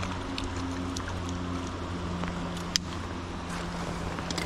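Creek water running steadily under a low, even hum, with a few faint ticks and one sharp click about two thirds of the way in.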